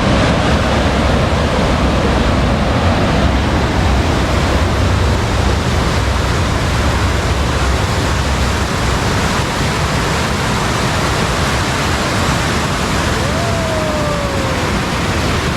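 Fast, rain-swollen river current rushing steadily and loudly. A short falling whistle-like tone sounds near the end.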